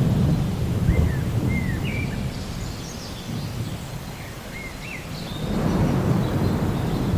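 Steady rain with low rolls of thunder, one at the start and another swelling from about five and a half seconds in. A bird chirps several times in between.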